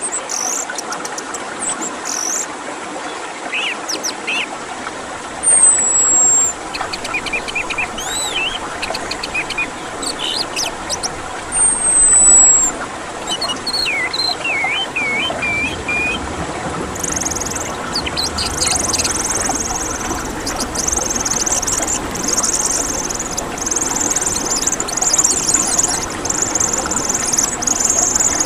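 Orange-headed thrush singing: scattered whistles and chirps with two loud falling whistles, then from about halfway a fast, continuous high-pitched chatter. A steady background noise runs underneath.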